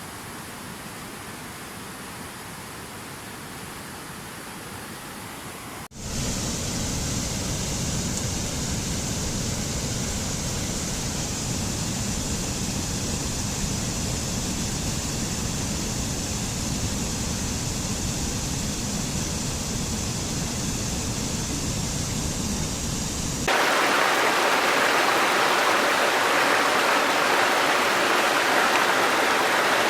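Waterfall: steady rushing of falling water, in three recordings joined by abrupt cuts. A softer, thinner rush gives way about six seconds in to a louder, deeper one with a low rumble, which about six seconds before the end switches to a louder, brighter hiss of spray without the rumble.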